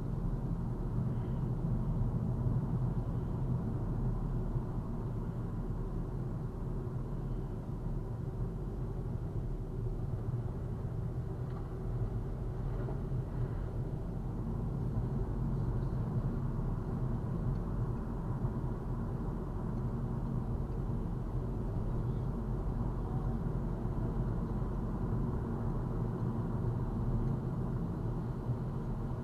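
A car driving: steady low rumble of engine and road noise, unchanging throughout.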